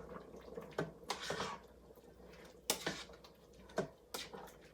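A kitchen utensil clinking and knocking against a cooking pot as sliced chicken in curry is worked in it: about half a dozen short, sharp knocks at uneven intervals.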